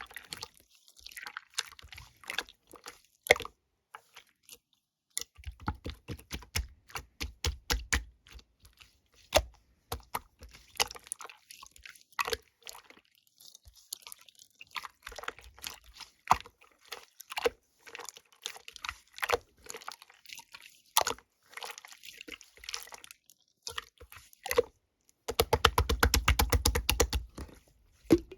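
Slime being squished and pressed by hand, making sharp wet clicks and crackles at an uneven pace. Near the end comes a dense run of fast squishing.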